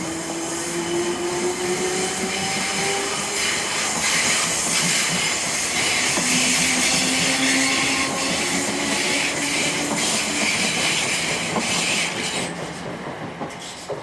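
Electric multiple-unit passenger train running on the line, with a broad rushing rail noise and a motor whine that rises slowly in pitch, twice over. The sound cuts off at the end.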